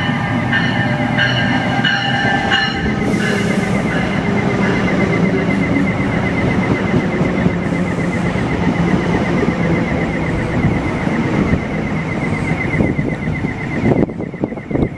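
NJ Transit commuter train of bi-level cars rolling past close by, a steady rumble of wheels on rail under a thin, fast-pulsing high whine. Stepped high tones sound over it in the first few seconds, and the high sound drops out sharply about fourteen seconds in.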